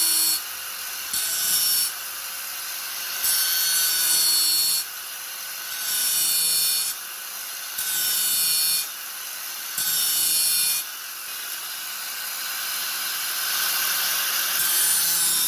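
Angle grinder running steadily with its disc repeatedly biting into the work: loud gritty bursts of about a second, every couple of seconds, falling back to the free-running whine between them, then a longer cut that builds near the end.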